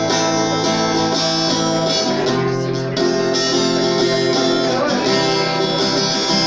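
Guitar playing a run of strummed chords that change about once a second, an instrumental passage with no singing.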